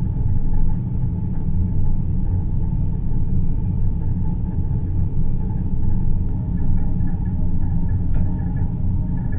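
Steady, deep low rumble with a faint hum above it: a continuous space-ambience drone made for sleep.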